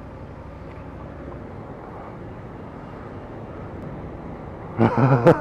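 Steady low rumble of idling vehicle engines with wind buffeting the microphone; a loud voice breaks in near the end.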